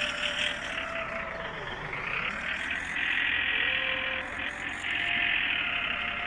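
Small electric motor and gearbox of a homemade RC toy tractor whirring as it drives through sand pulling a trailer, its thin whine dipping and rising in pitch a few times as the load changes.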